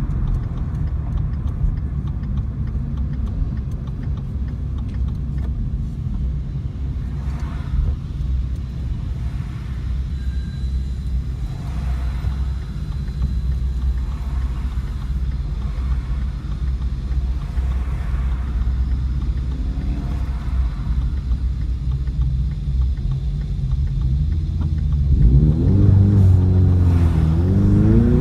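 Car engines idling with a steady low rumble. Near the end one engine is revved, its pitch climbing and dipping as the level rises.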